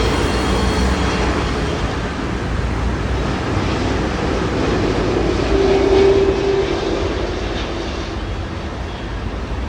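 Jet airliner engines running, a steady rushing noise with a low droning tone that swells to its loudest about six seconds in, then eases off.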